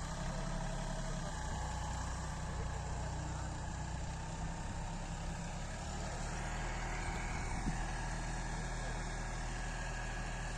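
Farmtrac Atom 26 mini tractor's diesel engine running steadily.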